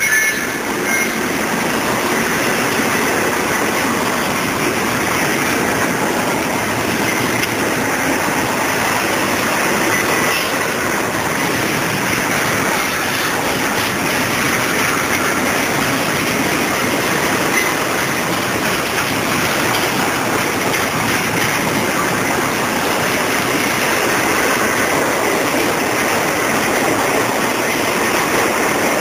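Double-stack intermodal well cars of a freight train rolling past on the rails, a loud, steady rush of steel wheels on track.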